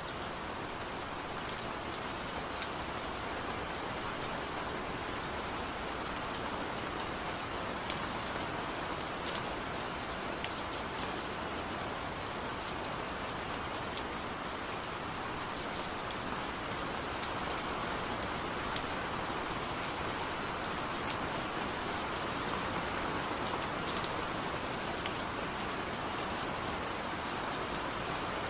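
Steady rain falling, an even hiss of rain with scattered sharp drips and taps of drops striking nearby surfaces.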